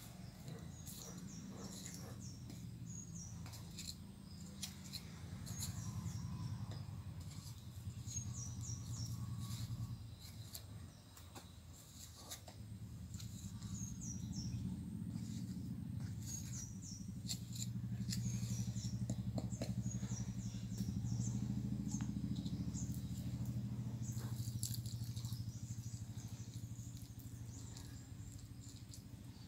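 Small birds chirping in short phrases of a few quick falling notes, repeated every second or two, over a steady low hum. Scattered soft clicks and scrapes come from hands working loose soil around a planted sapling.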